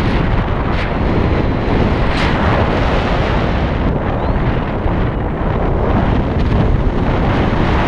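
Loud, steady wind noise buffeting the microphone, the rush of air from riding a motorcycle at speed.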